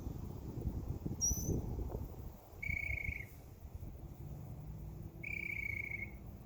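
Backyard birds calling: one short high chirp, then two short buzzy trills a couple of seconds apart, over a low rumble.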